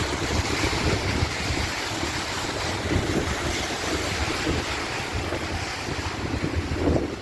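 Heavy rain pouring down, a steady hiss, with gusty wind buffeting the microphone in low, uneven rumbles.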